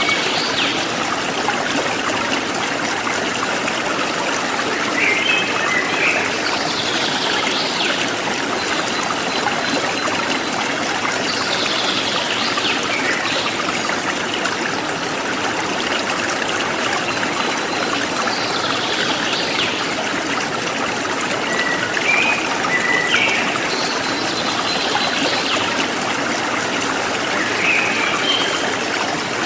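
A forest stream flowing and trickling steadily, with birds chirping now and then over it: short chirps and quick falling calls every few seconds.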